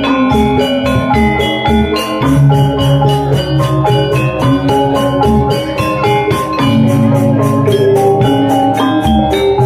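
Balinese gamelan gong ensemble playing: bronze metallophones struck in a fast, even pulse of bright ringing notes, over low tones held for a second or two at a time.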